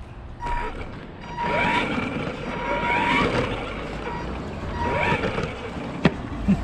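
Granite 4X4 monster truck running, with a high motor whine that rises and falls in pitch over three bursts of throttle and a rough ground noise. A sharp click about six seconds in.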